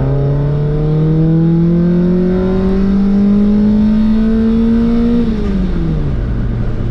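Mazda Miata's swapped-in NB2 1.8-litre VVT four-cylinder engine on a full-throttle pull, heard from inside the cabin: the revs climb steadily from about 4,000 rpm toward 7,000 rpm, then fall away about five seconds in as it shifts up to the next gear.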